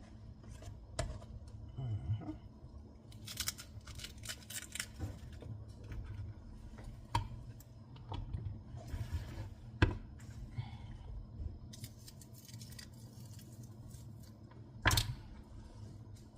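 Kitchen handling sounds: scattered clicks and short scrapes of utensils and cookware, with two sharp knocks, one about ten seconds in and a louder one near the end.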